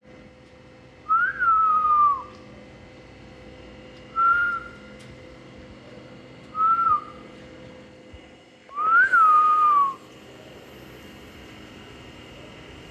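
Four separate whistled notes, each sliding up and then down in pitch. The first and last are about a second long and the middle two are short.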